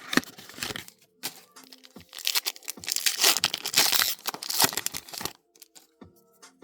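Trading card booster pack wrapper being torn open and crinkled by hand, stopping a little after five seconds in. Faint background music follows.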